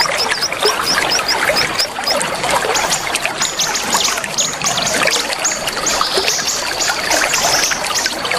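Small songbirds chirping and singing densely over steadily trickling water. A quick run of repeated high notes opens, and louder, higher calls join from about three seconds in.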